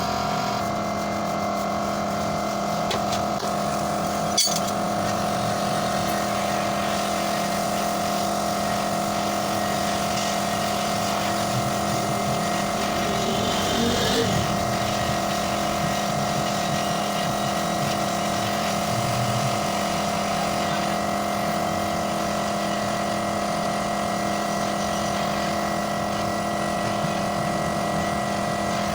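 A machine's motor running steadily with a constant hum, with one sharp knock about four seconds in.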